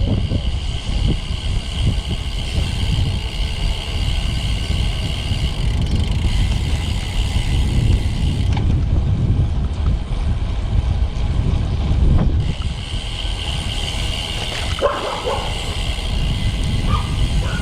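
Wind rushing over the microphone and road rumble while riding a road bike along the street; a dog barks a few times near the end.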